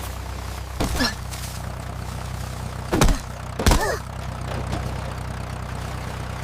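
Tractor engine idling with a steady low hum, with three short, louder sounds of sliding pitch about one, three and three and a half seconds in.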